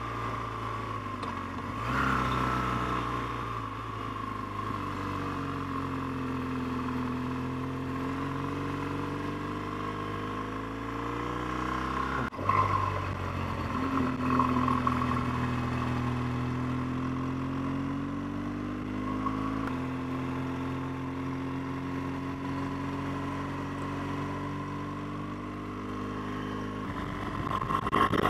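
BMW R1200GS boxer-twin motorcycle engine running under way, its note rising and falling with the revs. The engine note jumps abruptly three times.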